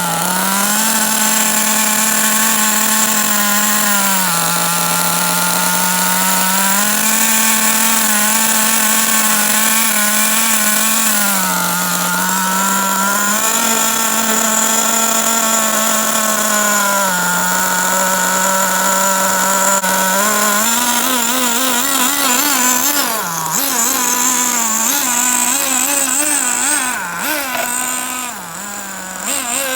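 HPI RS4 3 Evo RC car's SH-18 two-stroke nitro glow engine running under break-in, its pitch stepping up and down with the throttle. From about two-thirds of the way through, the pitch wavers quickly and the sound grows fainter.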